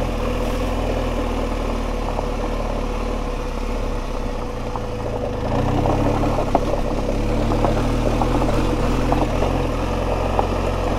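BMW GS boxer-twin engine running at low, steady revs as the motorcycle rides slowly over a loose gravel and rock track, getting a little louder about halfway through. Scattered clicks and crunches from stones under the tyres.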